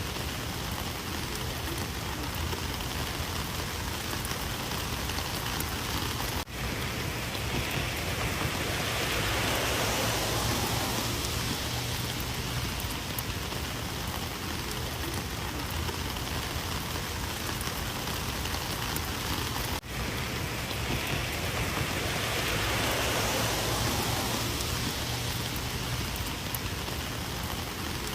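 Rain falling steadily, an even hiss that swells twice for a few seconds and cuts out for an instant twice.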